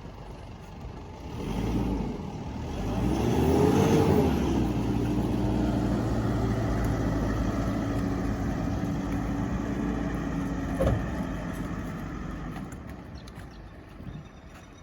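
A vehicle's engine revving up about three seconds in, then running steadily before fading away, typical of the tow vehicle pulling the empty boat trailer up the ramp. A single knock near the end.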